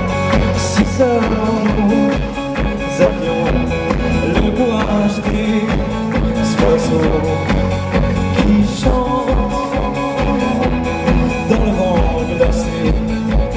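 Live band playing the instrumental ending of the song, with drums keeping a steady beat under sustained guitar and keyboard chords.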